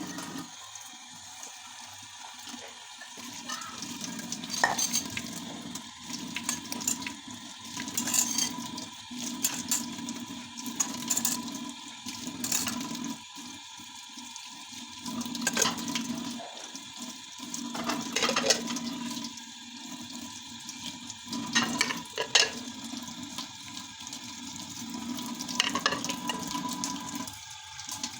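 Water running from a tap in stretches, stopping and starting, with dishes and utensils clinking and knocking throughout.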